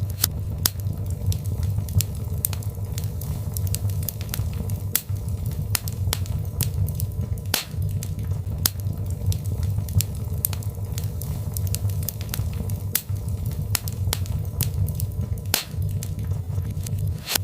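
Birchwood fire crackling in a fireplace: sharp, irregular pops and snaps several times a second over a low, steady rumble of the flames.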